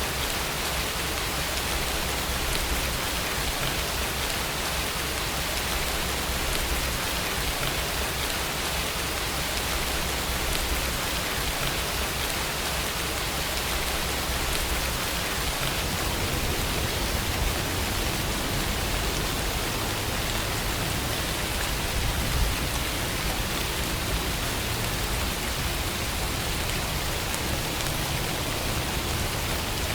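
Steady, even rainfall: a dense rain sound with no breaks or changes.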